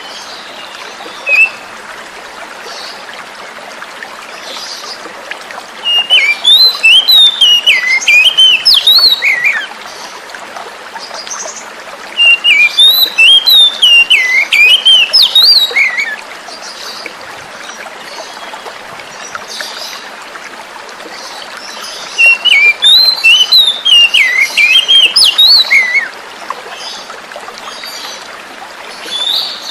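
Oriental magpie-robin (kacer) singing: three bursts of rapid, varied whistled phrases, each lasting three to four seconds, over a steady sound of flowing water.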